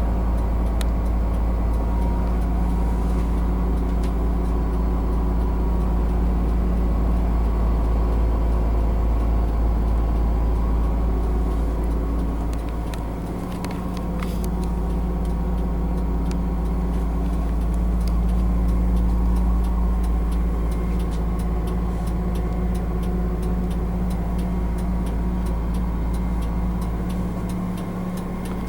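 Cummins ISM turbo diesel of a 2003 Blue Bird LTC-40 coach running steadily, with a short dip in level about halfway through.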